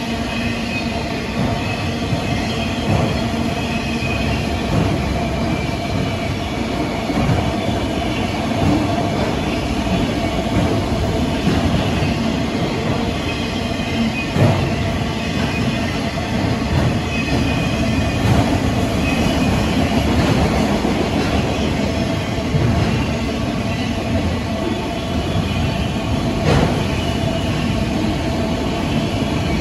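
CN train 273's cars rolling past at steady speed, the wheels knocking irregularly over rail joints, with a faint steady wheel squeal under the rumble.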